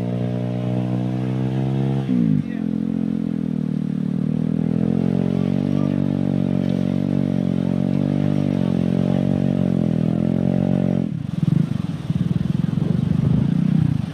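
Small engine of a boat-hauling winch running steadily under load, its pitch dipping about two seconds in and then holding with a slight waver. About eleven seconds in the steady engine tone stops and gives way to a rough, uneven rumble.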